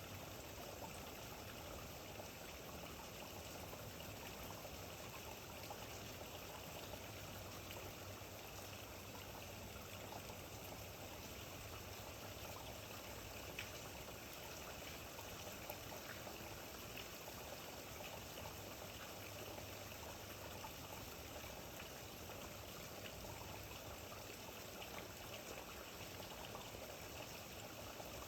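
Steady rainfall: an even hiss with a couple of louder drips near the middle.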